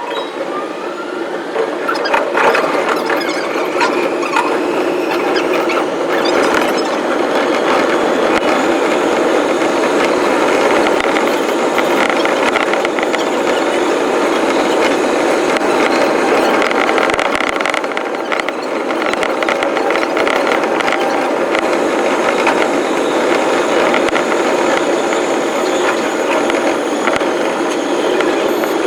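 Train running noise from a JR East electric commuter train, sped up. A rising motor whine is heard as it accelerates in the first few seconds, then a steady rumble with wheel squeal and rail clatter.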